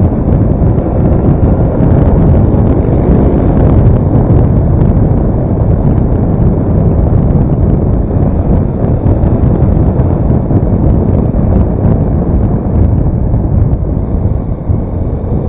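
Steady wind buffeting on the microphone while riding a Daelim S3 scooter, with its engine and road noise running underneath.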